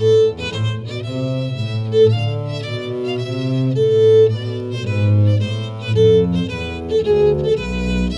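Violin and double bass playing together with the bow: a violin melody over a low bass line, the notes changing about every half second.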